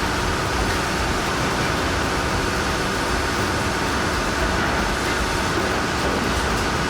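Heavy machinery engines running in a steady, unbroken rumble with a hissing edge.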